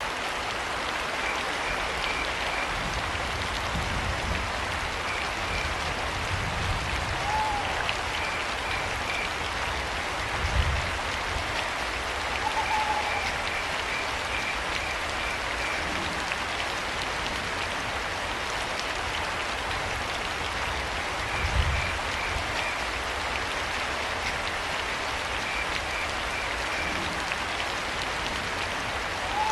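Steady rain falling, with crickets chirping in short high trains every few seconds and a few brief owl calls. Two low thumps stand out, about ten and twenty-one seconds in.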